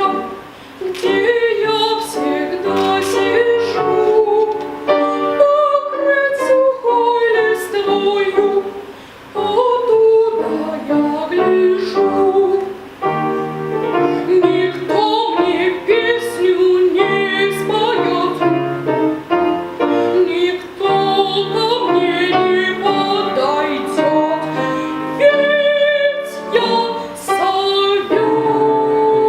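A woman singing in a classical style, accompanied by piano.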